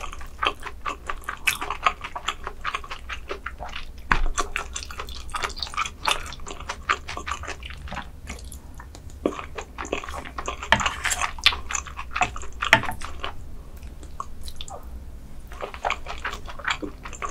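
Close-miked chewing of a mouthful of rice, with many small wet mouth clicks and smacks coming irregularly, briefly pausing a couple of times.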